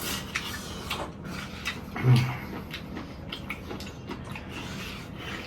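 Eating sounds: chewing and mouth smacking, with scattered light clicks and a short low hum about two seconds in.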